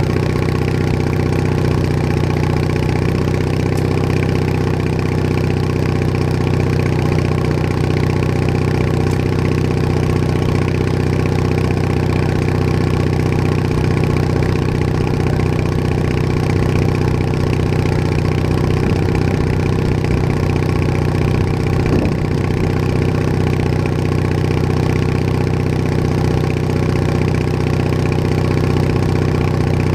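Bolens HT20 garden tractor engine running steadily at an even speed as the tractor drives along.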